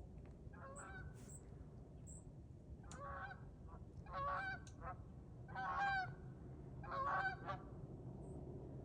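Honking bird calls, about five, each roughly half a second long and spaced unevenly, the loudest near the middle.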